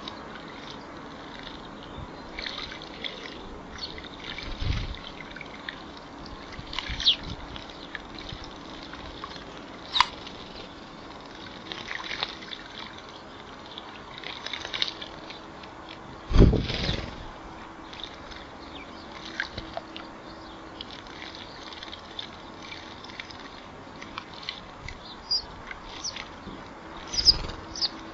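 Birds bathing in a shallow bird bath: intermittent splashing and flicking of water, with short high chirps here and there. The loudest splash comes about sixteen seconds in.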